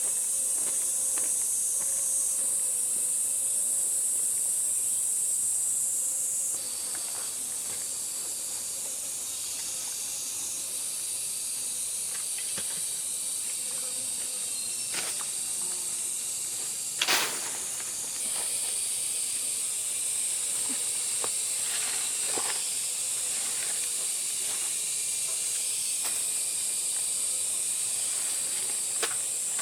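Cicadas buzzing in a steady, high-pitched chorus. The chorus drops a little about six seconds in and swells again after about eighteen seconds. Scattered light clicks and one sharp knock about seventeen seconds in.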